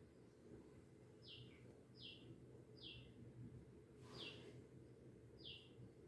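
Faint bird chirps: a short falling note repeated five times, the loudest about four seconds in, over a faint low hum.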